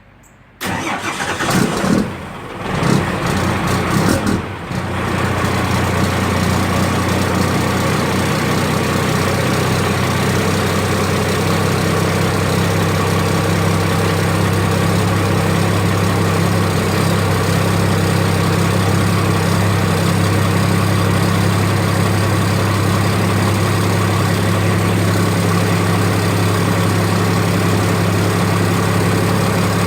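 Cummins 5.9 L 12-valve diesel with a P-pump cold-starting at about 37 °F: it cranks for about four seconds, catches and settles into a steady idle.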